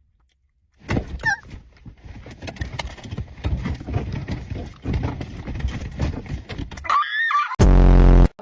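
A person's non-speech reaction to very sour candy: about six seconds of rapid knocking and rustling noise, a short high squeal, then a very loud, distorted buzzing blast for most of a second near the end.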